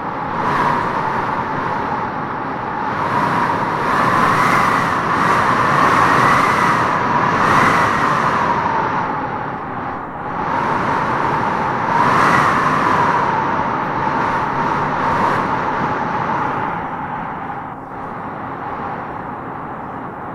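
Gusty wind howling through tropical trees, with a wavering whistle-like howl. It swells into strong gusts about four and twelve seconds in, easing off between them.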